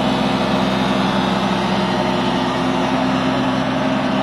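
Dump truck engine running steadily at a constant pitch.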